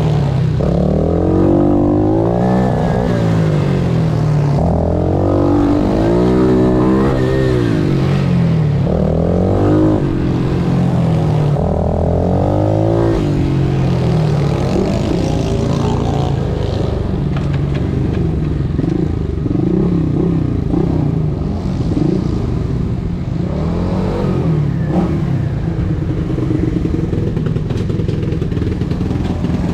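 Pit bike engine revving hard and falling back again and again, its pitch climbing and dropping every couple of seconds as the bike accelerates and slows between corners.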